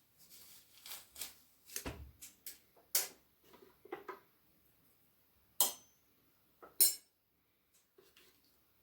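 Utensils clinking and knocking against a dish several times, the two sharpest knocks about five and a half and seven seconds in.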